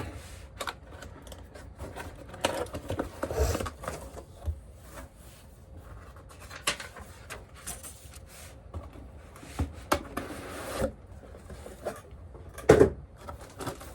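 A cardboard box and its packaging being opened and handled. There is irregular rubbing and sliding, with scattered light knocks and a louder thump near the end.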